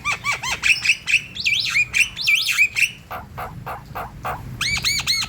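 Javan myna singing in full voice: a fast jumble of harsh clicks, squawks and whistled notes, ending in a quick run of repeated arching notes.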